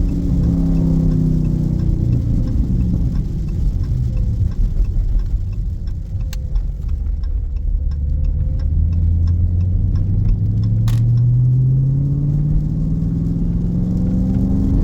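Dodge Scat Pack's 6.4-litre HEMI V8 engine easing off as the car slows over the first couple of seconds, running low and steady through the middle, then climbing in pitch as it accelerates again near the end. A run of faint regular clicks sounds in the middle.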